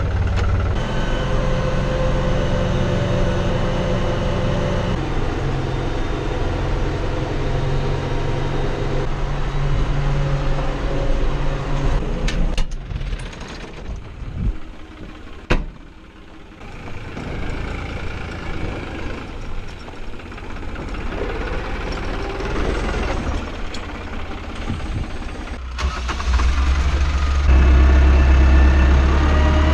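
Tractor engine running steadily, with a quieter, broken stretch in the middle and a single sharp click about fifteen seconds in; a deeper, louder engine takes over near the end.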